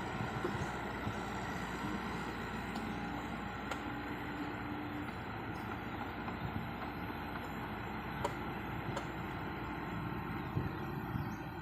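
Heavy earthmoving machinery at work: diesel engines of an excavator and dump truck running steadily, with a few faint clicks about a third of the way in and again later.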